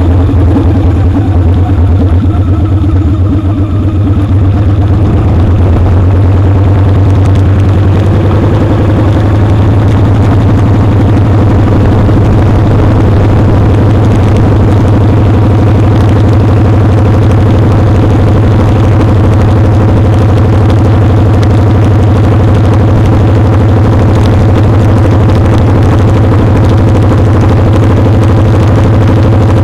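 Motorcycle engine running under way, heard close up from a foot-peg-mounted camera. The engine eases off briefly a few seconds in, then picks up and holds a steady pitch.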